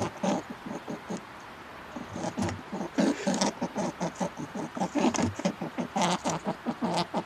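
Animal calls: a quick run of short pitched calls, several a second, coming thickest in the middle of the stretch.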